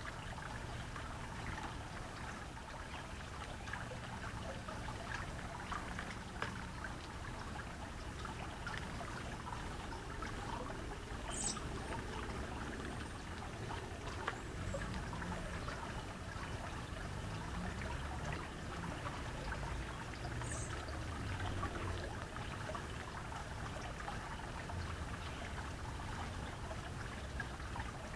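Water trickling steadily, with two brief high-pitched bird chirps, one near the middle and one about two-thirds of the way through.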